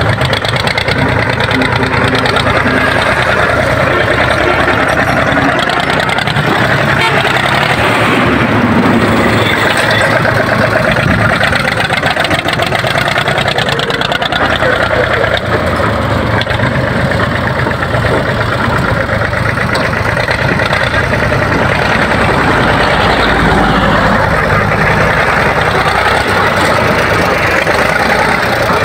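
Mahindra B275 DI tractor's three-cylinder diesel engine running steadily at idle, a continuous even clatter.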